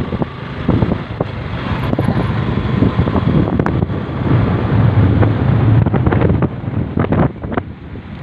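Heavy rain with wind buffeting the microphone: a steady hiss under a low, gusting rumble.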